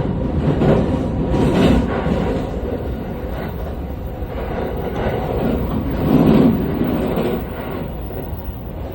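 Running noise heard inside a JR 217-series electric multiple unit: a steady low rumble of wheels on track, swelling about a second and a half in and again more strongly around six seconds.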